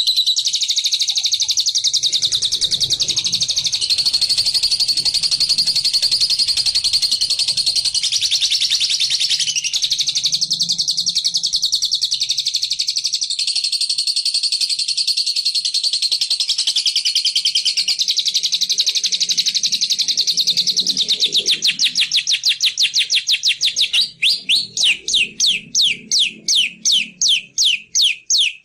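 Bird-luring recording of a small songbird's call, the rapid 'ngekek' chatter of the bird the uploader calls bilabu or labet: a continuous fast, high-pitched chattering trill. Over the last few seconds it slows into separate sharp chirps, a few a second.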